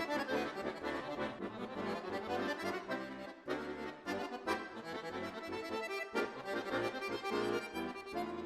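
Accordion music, a melody of held and changing notes over chords.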